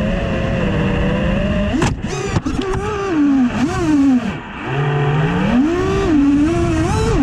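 FPV quadcopter's brushless motors and propellers whining, the pitch swooping up and down with the throttle. A few sharp clicks come about two seconds in, and the pitch dips low around four and a half seconds before climbing again.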